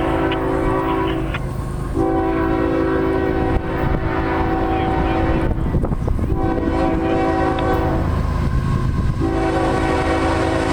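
Horn of a Norfolk Southern ES44AC diesel locomotive sounding a series of blasts: the end of one long blast, then a long one, a short one, and a final long one still held near the end, the pattern of a grade-crossing warning. A low, steady rumble of the locomotive and train runs beneath.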